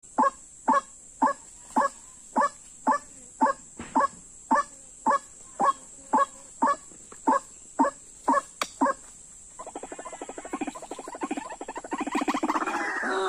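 White-breasted waterhen calling: a sharp call repeated about twice a second, then from about ten seconds a fast rattling, croaking series that grows louder.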